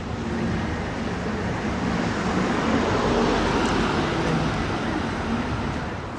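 A passing vehicle's engine noise, swelling to a peak about three seconds in and then easing off.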